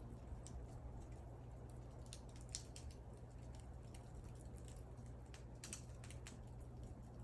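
Wood fire crackling: scattered sharp pops and snaps from burning wood, a small cluster about two and a half seconds in and another near six seconds, over a low steady rumble of the flames.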